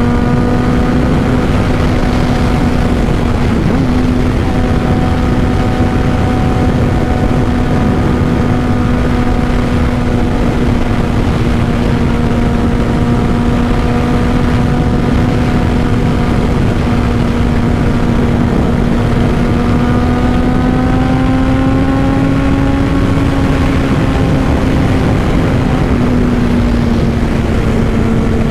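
2005 Honda CBR600RR inline-four with a Two Brothers full exhaust running at a steady cruise. Its pitch rises slightly about twenty seconds in, then eases back down, over a constant rush of wind noise.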